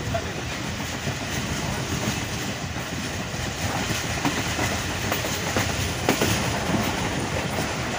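Passenger train coaches running at speed, heard from an open coach window: a steady rush and rumble of steel wheels on the rails, with a few clicks over rail joints.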